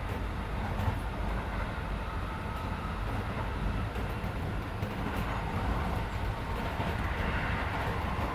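Keisei 3400 series electric train running between stations, heard from inside the passenger car: a steady rumble of wheels on rail with a faint whine that grows a little louder in the second half.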